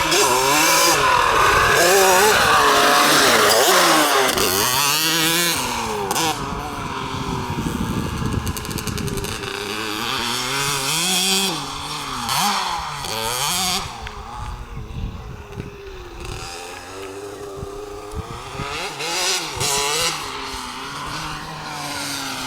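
Lem RX 65cc two-stroke minicross motorcycle being ridden, its engine revving up and down again and again. It is loudest in the first few seconds and more distant in the second half.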